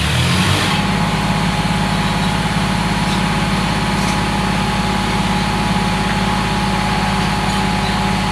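A vehicle engine running steadily at a constant speed, loud and close. A thin steady whine sits over it from about a second in.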